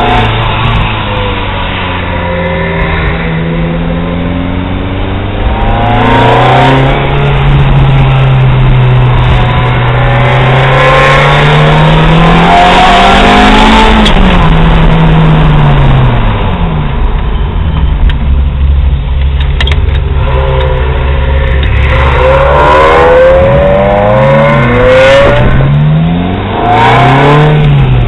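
Car engine heard from inside the cabin while being driven hard: its pitch climbs steadily for several seconds, drops sharply at a gear change about halfway through, and near the end rises and falls several times in quick succession as the car accelerates and shifts.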